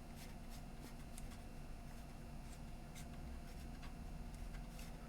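Faint, irregular small clicks and light handling noises from fingers working the parts of an opened portable CD player, with a faint steady hum underneath.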